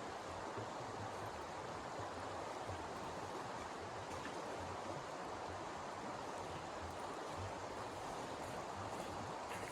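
Snowstorm wind rushing steadily, with irregular low buffeting rumbles.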